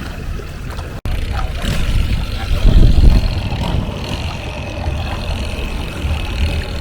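Longtail boat's engine running, a steady low rumble that grows louder about three seconds in.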